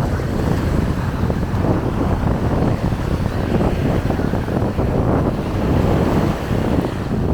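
Wind buffeting the microphone in steady low gusts over the wash of small waves breaking on a beach.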